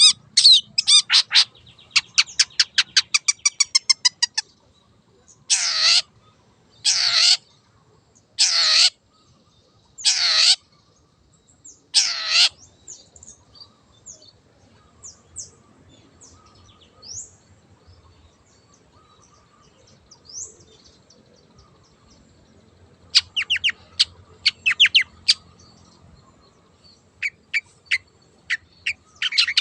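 Long-tailed shrike (cendet) singing. It opens with a fast rattle of sharp notes, then gives five loud harsh calls about a second and a half apart. A stretch of faint chips follows, and near the end come bursts of quick sharp notes.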